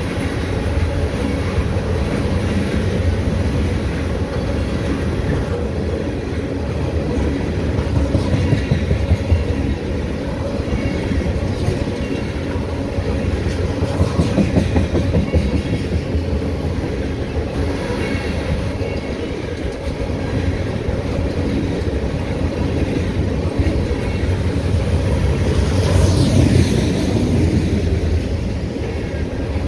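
A train of empty ethanol tank cars rolling past at speed: a steady steel-wheel rumble on the rails with a continuous clickety-clack of wheels passing over the track.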